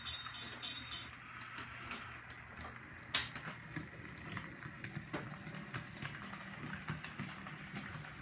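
Model train running on its track: a steady low motor hum with irregular light clicking of wheels over rail joints, and one sharper click about three seconds in.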